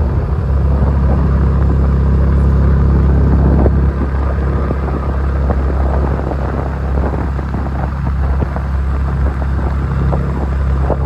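Motorcycle engine running steadily while riding, a continuous low drone that eases a little about four seconds in.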